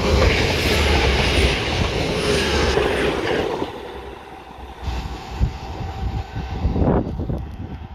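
Transport for Wales Class 175 diesel multiple unit passing close by at speed, a loud rumble of wheels and engines that cuts off sharply about three and a half seconds in. The train is then heard faintly from further off, with wind buffeting the microphone.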